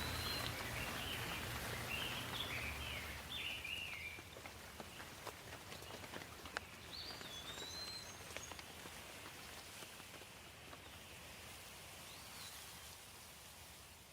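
Steady rain with scattered drips, and songbirds chirping over it: a run of chirps in the first few seconds, another short phrase around the middle and a faint call near the end. The sound fades down toward the end.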